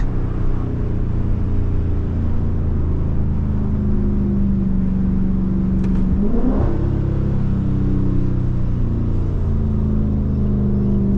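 Dodge Scat Pack's 6.4-litre HEMI V8 with its mid mufflers deleted, a steady exhaust drone while cruising. About six seconds in the pitch sweeps briefly upward, then it settles back into the steady drone.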